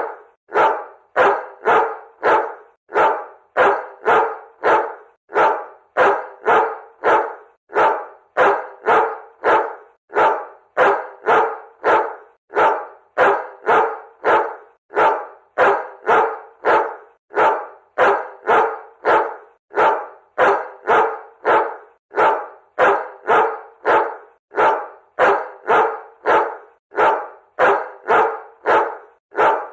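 Dog barking over and over in quick runs of about three barks, repeating at a steady, even pace.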